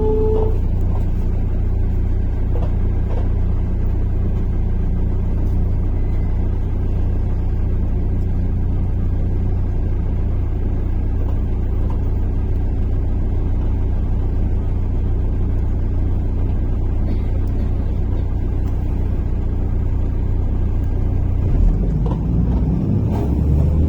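MAZ-103 city bus engine running with a steady low rumble. Near the end its pitch rises as the bus accelerates.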